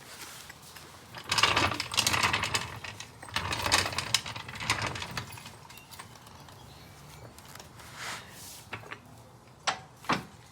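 Metal clattering and clanking as a car jack is moved into place under the car, with a few sharp clicks near the end.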